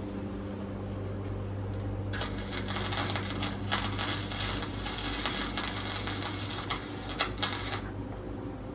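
Welding arc crackling on truck floor sheet metal in one continuous bead of about six seconds. It starts about two seconds in and cuts off near the end, over a steady electrical hum.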